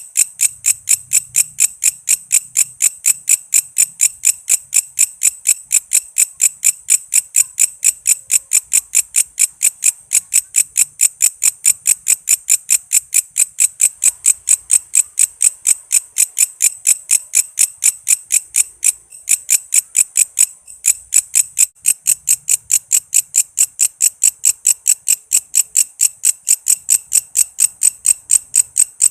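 Walang kece insect calling: a loud, steady, high-pitched chirping at about four pulses a second, which falters briefly twice about two-thirds of the way through.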